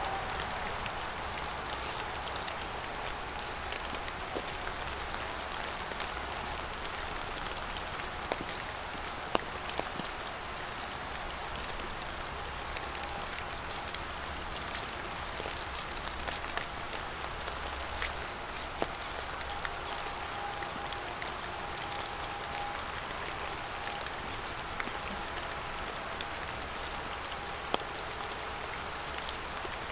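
Steady rain falling, an even hiss with frequent sharp single drop ticks close by.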